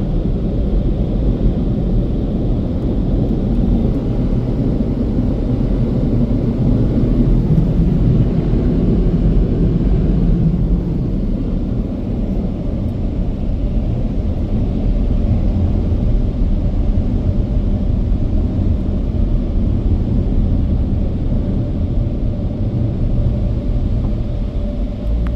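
A car running, heard from inside the cabin as a steady low rumble.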